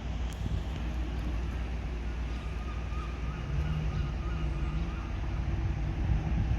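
Diesel train engine running steadily, with a low rumble and faint steady tones, and wind on the microphone.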